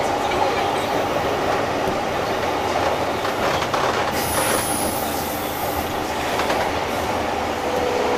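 JR East 201 series electric train heard from inside the car while running: a steady rumble of wheels on rail with clicks from the track, and a high wheel squeal for about two seconds midway. A steady tone comes in near the end.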